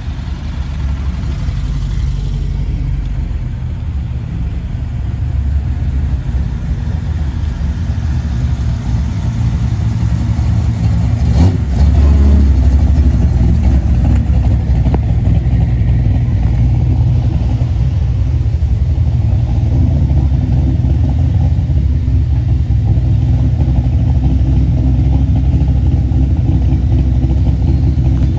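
A car engine running with a steady low rumble, getting louder over the first ten seconds or so and then holding level, with a single click about eleven seconds in.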